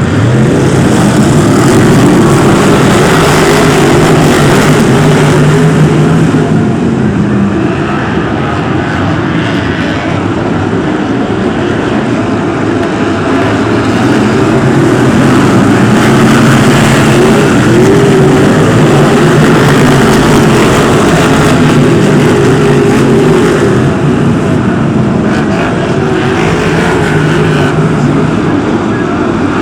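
Several BriSCA F1 stock cars' V8 engines racing round the track together, a loud, dense engine sound whose pitches waver up and down as the cars lap.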